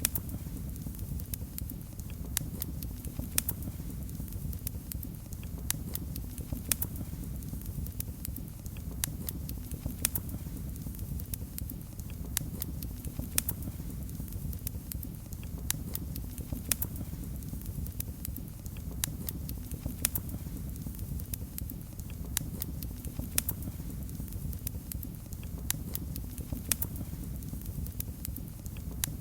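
Wood fire in a fireplace crackling, a steady low rumble of the flames with frequent sharp pops and snaps scattered irregularly.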